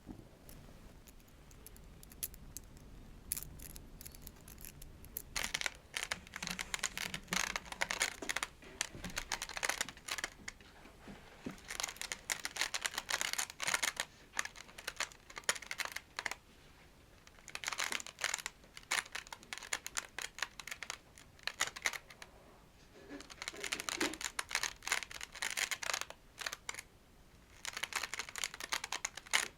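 Scratching and brushing on a toy plate, starting about five seconds in. It comes in bursts of dense, rapid scratches a few seconds long, separated by short pauses.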